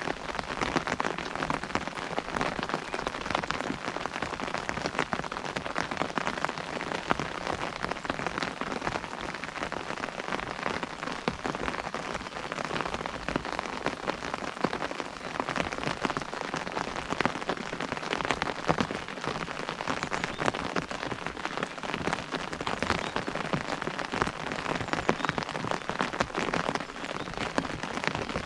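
Rain pattering steadily on an umbrella canopy, a dense stream of close drop taps over a background hiss of rainfall.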